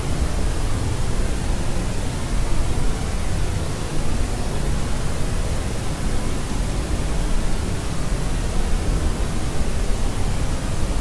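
Steady white noise of the deeper, pink-noise kind: an even, unbroken hiss weighted toward the low end, with no crying or other sounds in it.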